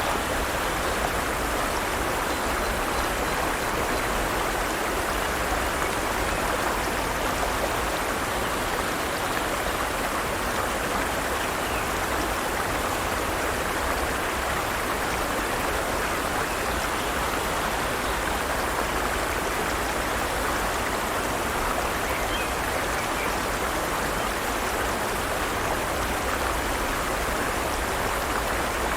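Forest stream running steadily, an even rush of flowing water with no breaks.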